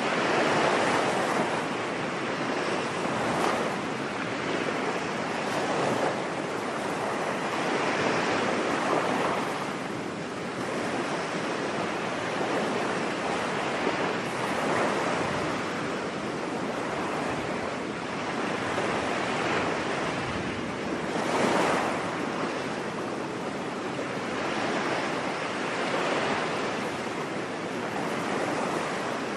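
Ocean waves washing onto a beach: a continuous surf wash that swells and eases every few seconds.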